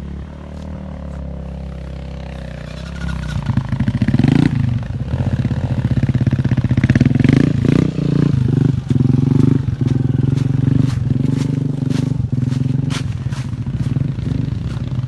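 Motorcycle engine running, then revving harder about three seconds in and held at high revs under load while climbing rough ground, with scattered clatter and knocks.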